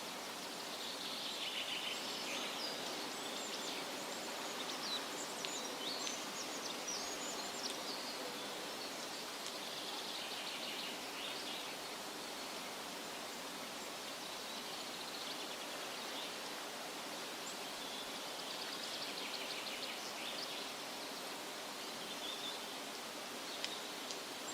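Steady wind rustling through leafy trees, with bursts of high chirps and trills from small songbirds coming and going.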